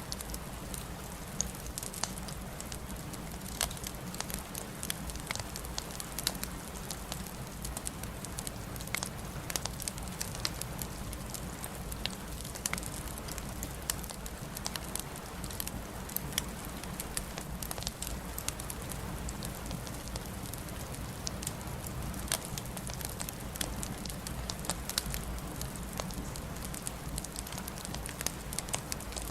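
Wood fire crackling: a steady low rumble of flames under a constant hiss, with frequent sharp pops and snaps of burning logs.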